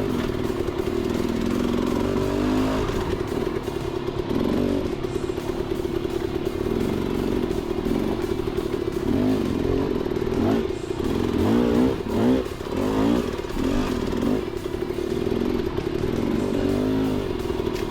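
Dirt bike engine running under way, with the throttle opened and closed in a run of quick revs about ten seconds in and again near the end.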